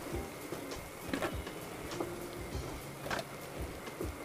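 Fritters frying quietly in hot oil in a kadhai, a faint steady hiss, with a few light knocks of a slotted wooden spatula against the pan as they are scooped out.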